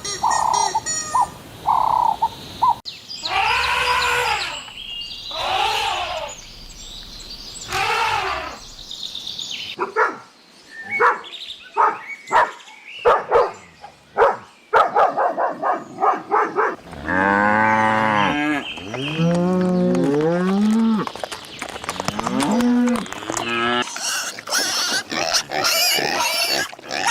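Calls of several different farm animals, one short clip after another, changing abruptly every few seconds: a run of short repeated calls, then long pitched calls that rise and fall, a string of short clicky sounds, and more drawn-out calls near the end.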